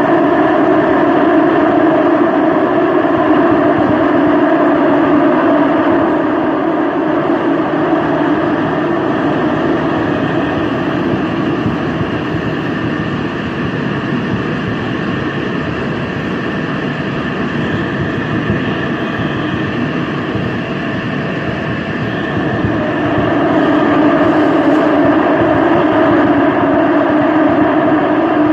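Busan Metro Line 2 subway train running between stations: a steady rumble of wheels and traction that eases off through the middle and grows louder again a few seconds before the end.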